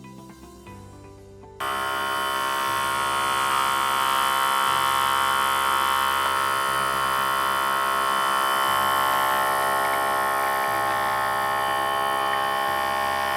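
Outin Nano portable espresso machine's electric pump buzzing steadily as it pushes the heated water through a Nespresso capsule to brew an espresso. The buzz starts suddenly about a second and a half in.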